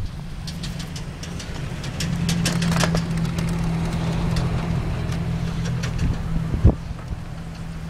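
A motor vehicle's engine running steadily nearby: a low, even hum that grows louder about two seconds in. Light clicks and one sharp thump are heard over it near the end.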